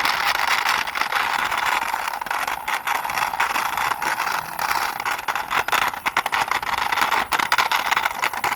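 Toy police motorbike pushed along a hard surface by hand: a steady rolling rattle from its small plastic wheels, with many small clicks throughout.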